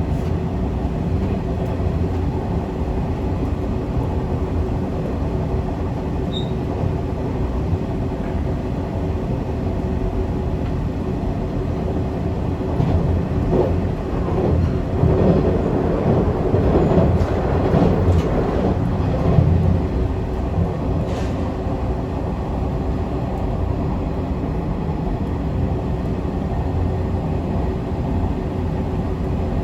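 Zipangu Hiraizumi train running at speed: a steady rumble of wheels on rail with a constant hum, swelling louder for a few seconds about halfway through.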